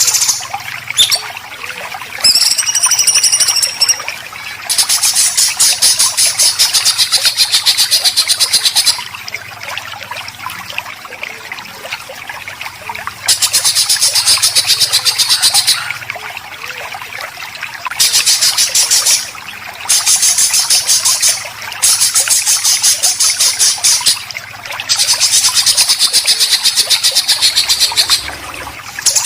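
Songbird 'besetan': long bursts of harsh, very rapid rattling calls, each one to four seconds, repeated about six times, with a short whistled note about two seconds in. Under them is a steady trickle of running water.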